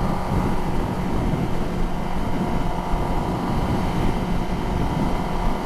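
Kawasaki ZX-10R's inline-four engine running at a steady pitch while riding, with wind rushing over the helmet microphone.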